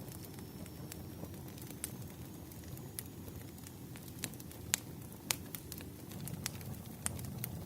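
Burning firewood crackling: irregular sharp pops and snaps over a low, steady rumble of the fire, the two loudest pops a little past halfway.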